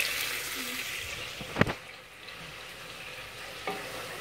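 Sliced onions frying in oil and ghee in a pressure cooker, a sizzle that fades away over the first two seconds. One sharp knock about one and a half seconds in, and a fainter one near the end.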